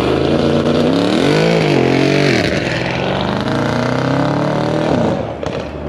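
Car engine revving: the pitch rises and falls twice early on, then holds steady and drops about five seconds in.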